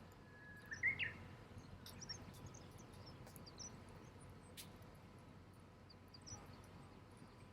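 Campfire crackling faintly, with scattered small pops and clicks and a brief brighter chirp about a second in.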